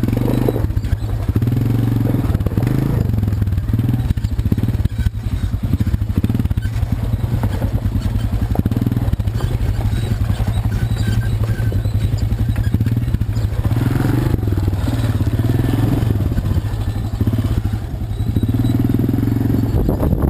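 ATV (quad bike) engine running steadily, a continuous low engine note.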